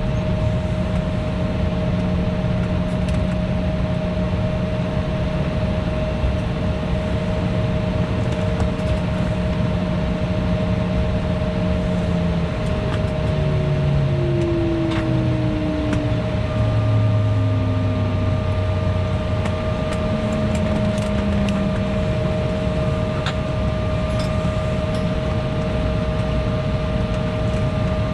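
Cabin noise inside a parked Embraer E175: steady air-conditioning hiss with two fixed tones. Past the middle the low hum of the GE CF34 turbofan engines falls away in pitch in steps as they wind down after shutdown. A higher steady tone comes in about halfway.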